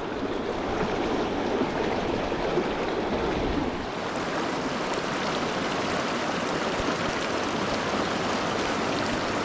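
Steady rush of running water from a fast mountain river.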